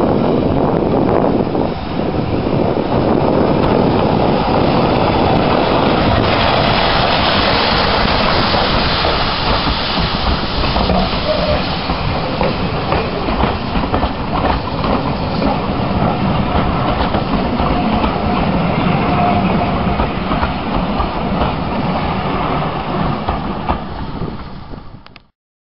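Steam train with passenger coaches passing close, its wheels clattering over the rail joints. The sound cuts off suddenly near the end.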